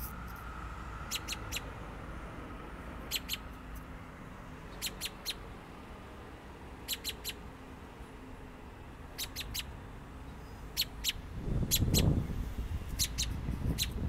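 A small bird calling from a tree in short, sharp chips, in quick groups of two to four about every two seconds. A brief low rumble comes about twelve seconds in.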